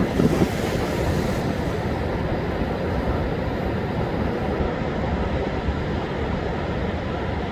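Heavy storm surf breaking and washing up the beach, a steady low rumble of waves with strong wind buffeting the microphone.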